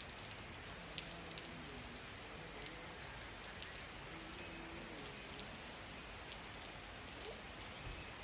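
Faint steady rain falling, with scattered individual drops ticking on surfaces.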